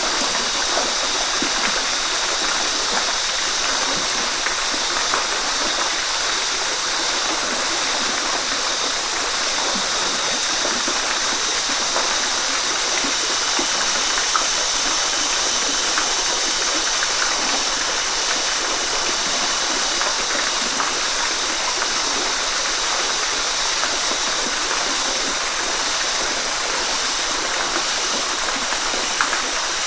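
Waterfall: a steady rush of falling water, with small splashes scattered through it.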